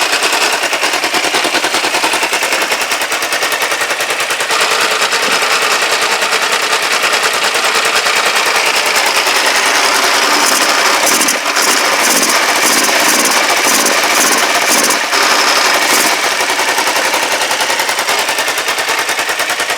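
Kawasaki GPZ500S parallel-twin engine running on the bench in a frame, a loud, steady rattle of rapid exhaust pulses. It is running only on the fuel left in the carburettor float bowls, with no fuel supply connected.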